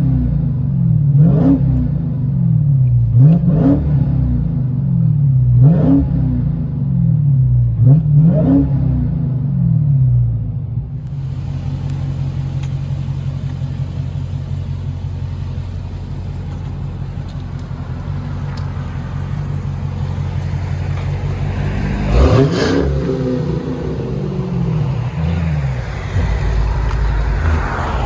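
Supercharged 6.2-litre HEMI V8 of a Dodge Challenger Hellcat with Black Widow Angry Housewife mufflers, heard from inside the cabin, revved in five quick blips that rise and fall. After about eleven seconds it settles into a steady idle, then is blipped twice more near the end.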